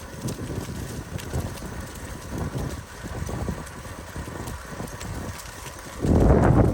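Rumble and rattle of a bicycle riding over a dirt trail, mixed with wind buffeting the microphone, suddenly much louder about six seconds in.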